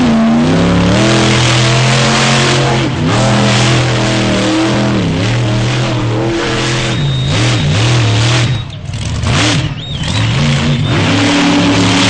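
Monster truck engine running loud at a fast idle and being revved, its pitch sagging and climbing again several times. About nine seconds in it drops lower and quieter before being revved back up.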